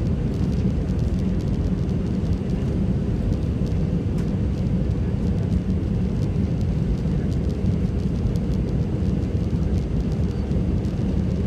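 Steady low rumble of engine and airflow noise inside the cabin of an Airbus A320-211 airliner with CFM56 engines, descending on final approach.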